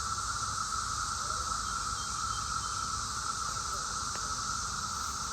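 Chorus of cicadas singing, a steady, unbroken drone with no pauses.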